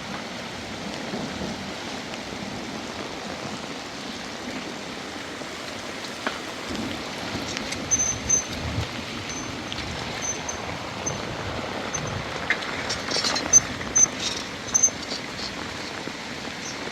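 Steady rain falling. In the second half a few sharp clicks and knocks come through, along with short, high chirps.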